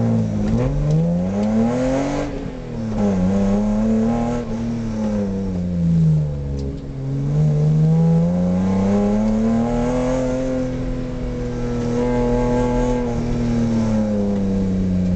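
BMW E30 325is straight-six engine heard from inside the car, driven hard: its revs climb and drop several times, rising through about the first two seconds, dipping, climbing again, then holding high through the middle before falling near the end.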